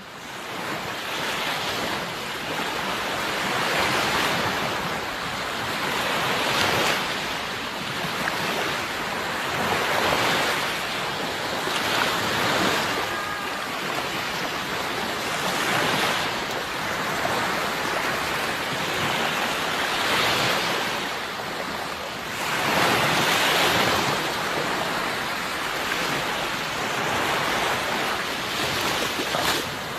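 Sea waves washing onto the shore, a steady rush that swells and eases with each wave every few seconds, fading in over the first couple of seconds.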